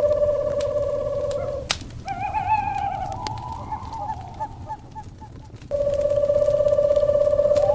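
Owl calls over a crackling fire: a steady, rapid, even-pitched trill breaks off with a sharp crackle, gives way to a wavering call that rises and falls in pitch for about four seconds, then the trill resumes.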